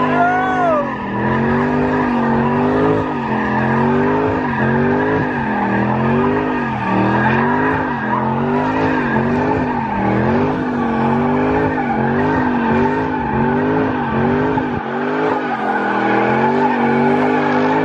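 Car engine revving up and down about once a second in a steady rhythm while the tyres squeal, as the car slides.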